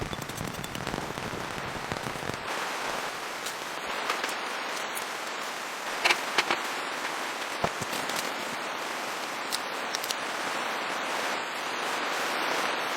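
Steady rain falling, with a handful of louder single drops striking close by. A low rumble underneath stops about two and a half seconds in.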